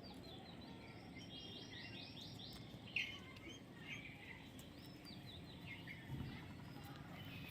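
Baby parrot chirping: short high chirps, including a quick run of them, with the loudest chirp about three seconds in, over steady background noise.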